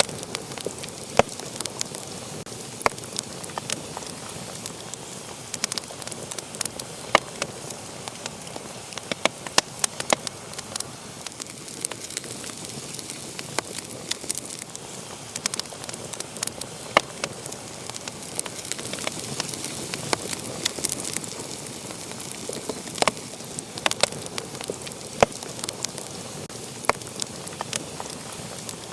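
Wood fire burning steadily, with a constant soft hiss and irregular sharp crackles and pops several times a second.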